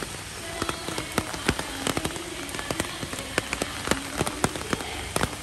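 Heavy rain falling, with a steady hiss and a dense, irregular run of sharp drop impacts close to the microphone.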